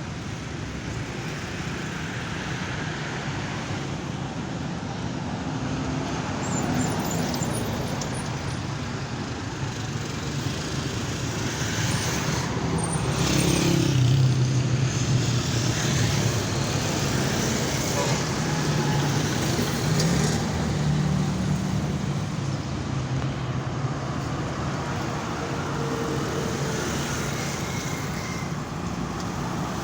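Road vehicle noise: engines running and traffic rumble, swelling louder about halfway through.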